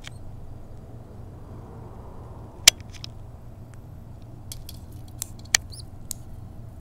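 A few sharp clicks, the loudest about a third of the way in, over a low steady hum. A couple of faint high peeps come about two-thirds in, like the calls of a nestling bird.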